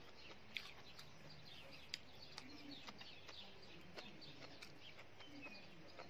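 Faint, scattered chirping and song of several small birds, with a few brief clicks.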